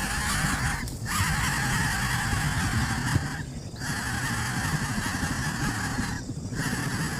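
Coucal chick hissing in long rasping hisses of about two and a half seconds each, broken by brief pauses.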